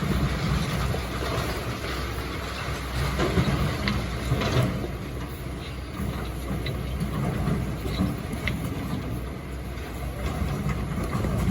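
Excavator engine running steadily, with a few short knocks and clanks from the machine working rock and sand, two pairs of them about halfway and two-thirds of the way in.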